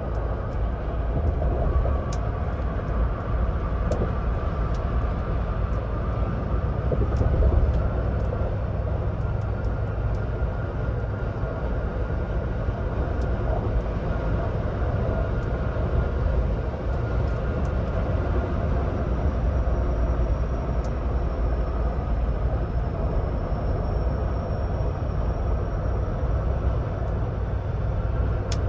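Ford Bronco Badlands driving at highway speed: steady road noise with a deep low rumble.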